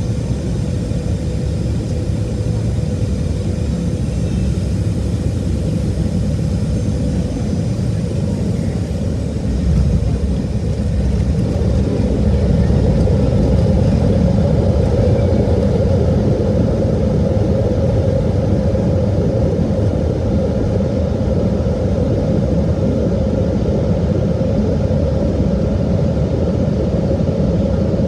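Cabin noise of a Boeing 737-700 coming in to land: a steady rumble of engines and airflow, a brief bump about ten seconds in, then the rumble grows louder and stays up, as with touchdown and the landing roll.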